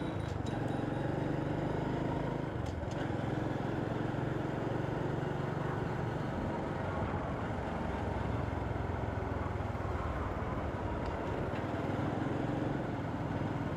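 Motorcycle engine running steadily at a cruise, its low hum mixed with road and wind noise.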